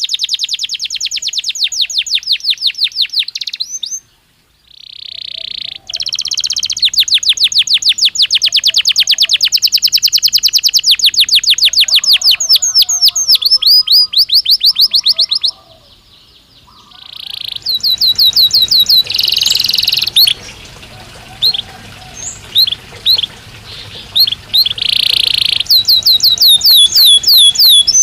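Belgian canary singing: long runs of rapid, evenly repeated high trill notes, with a few held rolling notes between them. The song breaks off briefly about four seconds in and again about fifteen seconds in.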